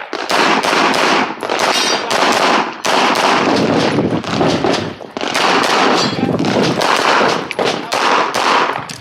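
Handgun fired in rapid strings during a USPSA competition stage. The shots come in quick succession, with short breaks about three and five seconds in and near the end.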